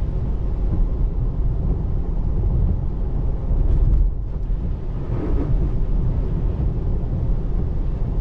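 Road and tyre noise inside the cabin of a moving Tesla Model 3 on a rain-soaked road: a steady low rumble that swells briefly a little under four seconds in.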